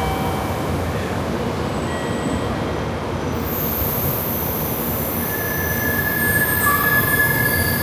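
Shinkansen train, the 923 Doctor Yellow, running in along the platform with a steady rumble. A thin high whine comes in about three seconds in, and a brake squeal joins about two seconds later as it slows to stop.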